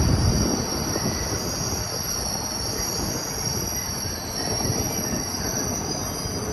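Passenger train rolling through the station, its wheels squealing in steady high tones over the rumble of the cars; the low rumble is heaviest at the start and eases off soon after.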